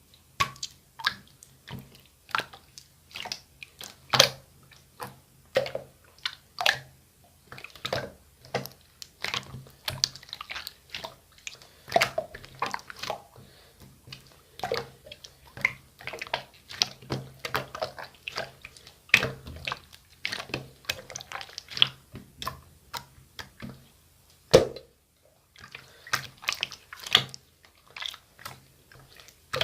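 Clear slime being pressed and squished by hand, making a steady irregular run of wet pops and clicks.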